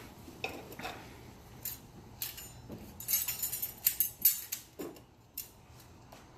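Light, irregular metallic clicks and clinks of transmission clutch plates being handled and laid into oil to soak, bunched together partway through.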